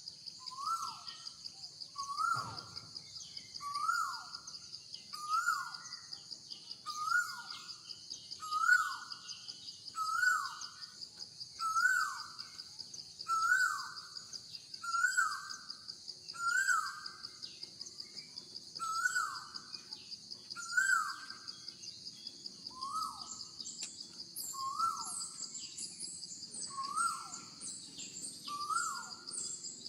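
A bird repeating a single short call about every one and a half seconds, each note rising and then dropping sharply, with a few brief pauses. Under it runs a steady high-pitched insect drone, and small high chirps grow busier near the end.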